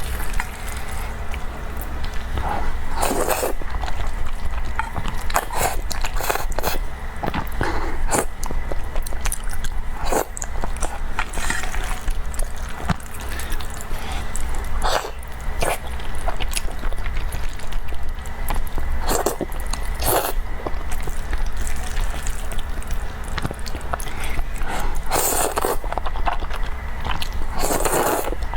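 Close-miked eating sounds: a person biting and chewing food with irregular mouth clicks and smacks.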